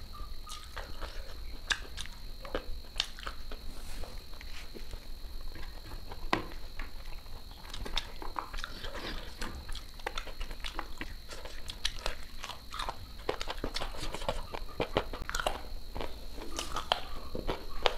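Close-miked mouth sounds of someone eating rice and curry by hand: chewing, with many irregular small clicks, over a faint steady high-pitched whine.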